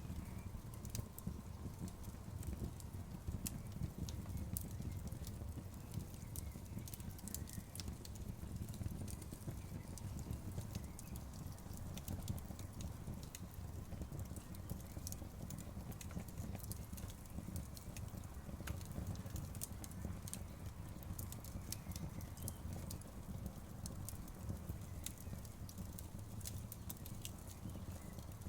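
Outdoor bonfire burning with a steady low rumble and frequent sharp, irregular crackles and pops of burning wood.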